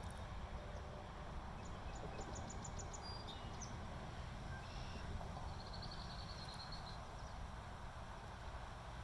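Small birds chirping faintly over a steady low rumble: a quick run of about seven high ticks around two seconds in, then a short high trill in the middle.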